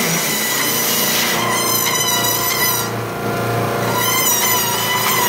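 Treadmill belt and motor running fast while a scale model car's tires are pressed against the moving belt. The tires rub and squeal in wavering high tones that come and go twice, and the friction is burning the tires down.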